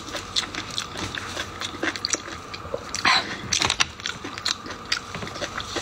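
A person chewing and biting food close to the microphone, with many small wet mouth clicks and one louder, longer sound about three seconds in.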